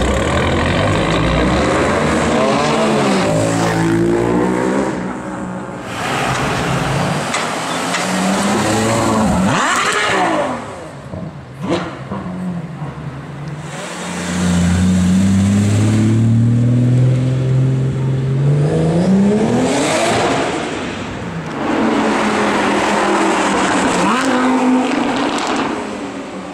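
Performance cars accelerating hard along a street one after another, their engines revving loudly. The pitch climbs and drops several times as each car pulls away or passes, with the longest hard pull about halfway through.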